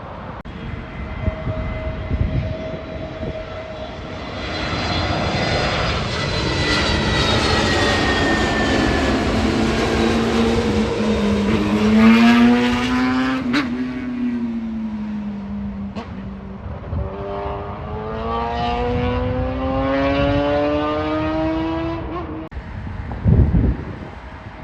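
Jet airliner passing low overhead: a long swell of engine noise whose whining tones glide down in pitch and then back up before it fades about 22 seconds in. A short loud burst follows near the end.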